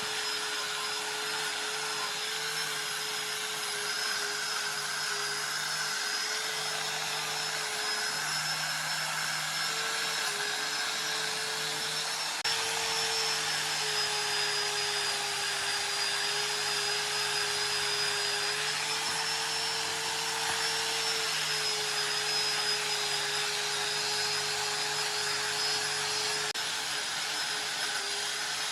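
An electric power tool's motor running steadily without a break. Its pitch wavers a little, and it gets slightly louder about twelve seconds in.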